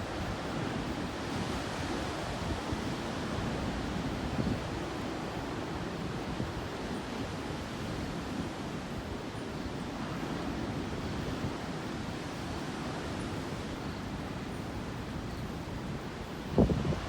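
Heavy storm surf running steadily, with wind on the microphone; a louder surge comes about a second before the end.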